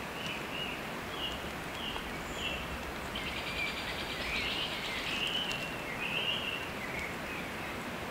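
Small songbirds calling with short repeated chirps and a rapid trill in the middle, over a steady hiss.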